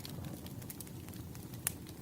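Wood fire crackling: a steady low rumble with scattered sharp pops, one louder pop near the end.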